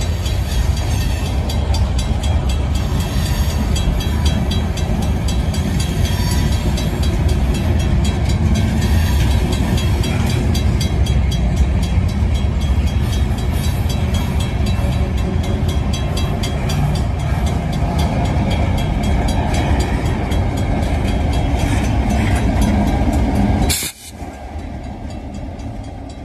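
Freight cars rolling past close by: a steady heavy rumble of steel wheels on rail with rapid clicking. About 24 seconds in the sound drops suddenly to a quieter level as the trailing EMD GP38-2 diesel locomotive comes by.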